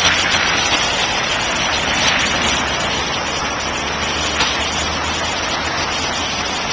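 Road traffic passing: car tyres making a steady hiss on the street over a low engine rumble, loud enough to sound like cars peeling out though they are driving normally.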